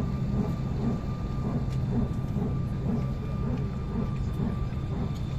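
Steady low drone inside a parked airliner's cabin, the ventilation and aircraft systems running with a thin constant whine above it, and faint passenger voices in the background.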